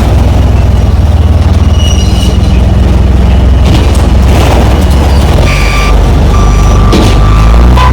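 Semi-truck's diesel engine running with a steady low drone. A thin, steady higher tone joins about five and a half seconds in.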